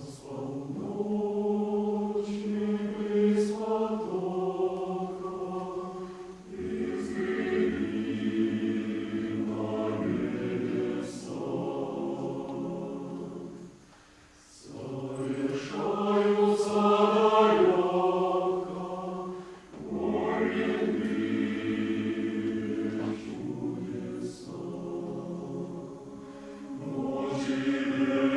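Choir singing in long phrases, with a short break about halfway through before the next phrase begins.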